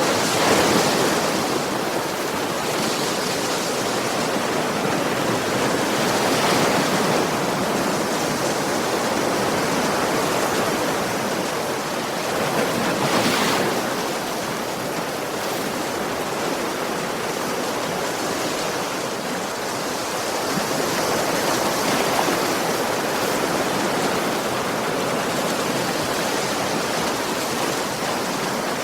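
Ocean waves washing onto a beach: a steady rush of surf, with a wave breaking louder every several seconds.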